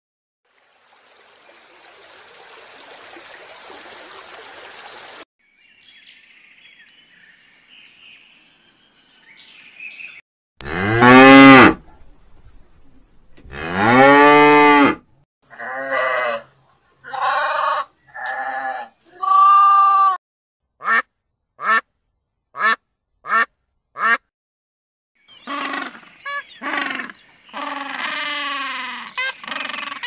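A run of separate animal calls edited one after another: a soft hiss at first, then two loud, drawn-out calls falling in pitch, a series of short lamb bleats, six quick short calls, and more calls near the end.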